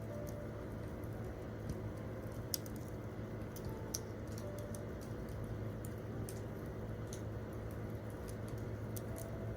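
Wood campfire crackling, with irregular sharp pops over a steady low rush; the loudest pops come about two and a half seconds in and at about four seconds. A few faint, soft piano notes sound underneath.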